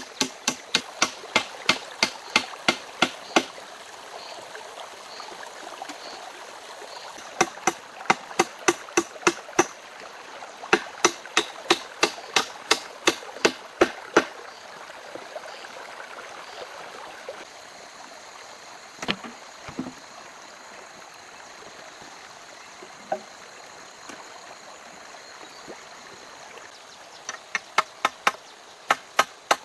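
A hand tool striking wood in quick runs of about three blows a second, a few seconds at a time, with a couple of single knocks in between, over a steady rushing background like a stream.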